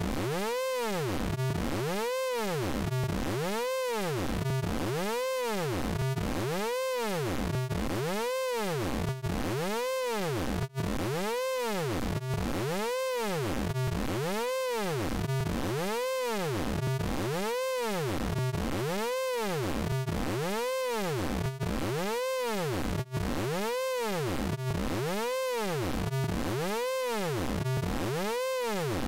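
Synthesized vocoder sound effect from the Orange Vocoder software plugin, made of a stack of harmonics that sweeps up and down in pitch over and over in an even, repeating warble.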